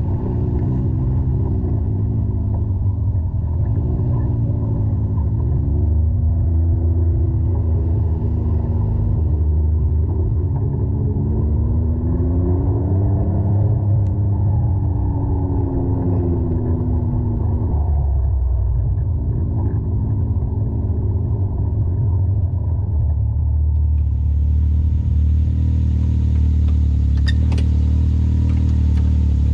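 Side-by-side UTV engine running under a heavy low rumble, its revs rising and falling again and again, then holding steadier for the last ten seconds or so.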